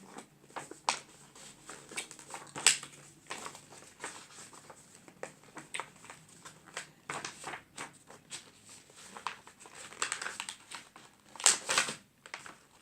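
A large A3 sheet of paper rustling and crinkling in irregular bursts as it is folded and creased into a paper airplane, with a sharper crackle about three seconds in and another near the end.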